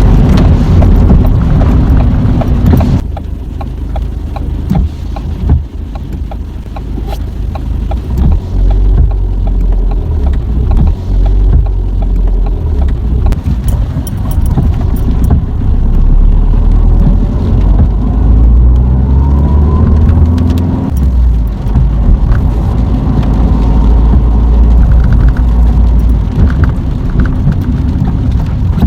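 Manual-gearbox Ford Fiesta heard from inside the cabin while driving: steady engine and road rumble. Past the middle the engine note rises as the car accelerates, then drops suddenly at a gear change.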